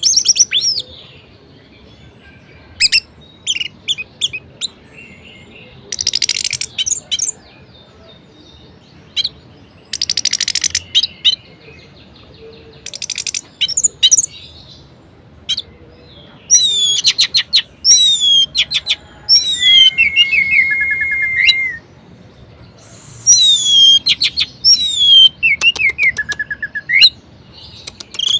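Orange-headed thrush singing a varied song in separate phrases: fast trills and sharp chips, then loud falling whistled notes, with one long steady whistle about two-thirds of the way through.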